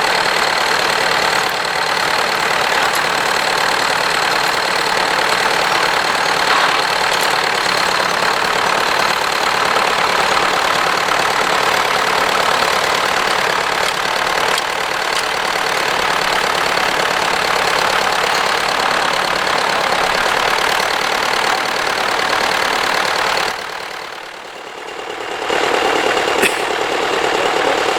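Tractor engine running steadily, briefly quieter for a couple of seconds near the end.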